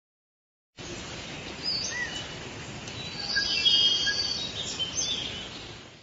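Birds chirping and calling, short rising and falling whistles over a steady hiss of outdoor ambience. Starts about a second in and fades out near the end.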